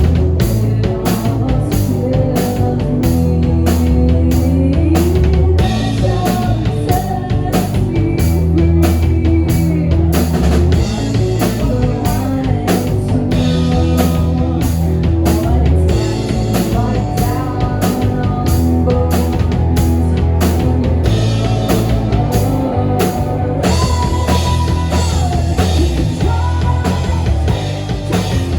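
A rock band playing live: drum kit keeping a steady, even beat under guitar and low bass notes.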